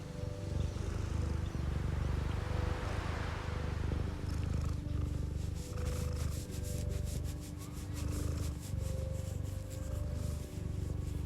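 Domestic cat purring close to the microphone: a low, continuous rumble that swells and eases with each breath in and out.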